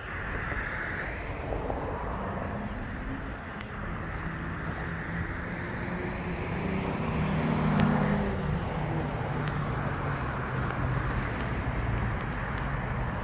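Outdoor ambience with a motor vehicle passing, its engine hum swelling to a peak about eight seconds in and then fading.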